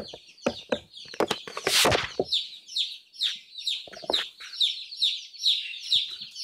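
A brooder full of day-old chicks peeping, many short high falling peeps several times a second. There are a few knocks and a brief rustle in the first two seconds.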